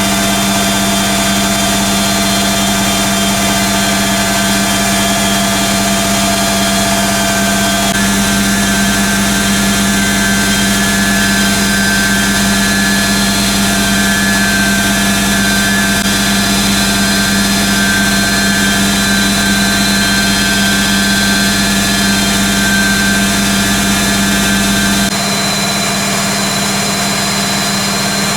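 1980 Hoover Keymatic A3112 washing machine on its final spin at 800rpm: the motor and drum hum with a steady whine, shifting slightly about eight seconds in and again near the end.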